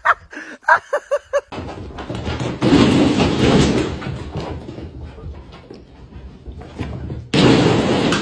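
A quick run of short, high-pitched cries for about a second and a half. Then a dog plays in a ball pit, setting off a loud rustle and clatter of plastic balls, with another loud burst near the end as it leaps out of the pit.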